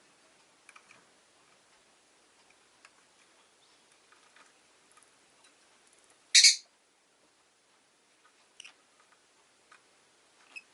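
Rosy-faced lovebird giving one loud, short, shrill call about six seconds in, with a few faint chirps and light ticks around it.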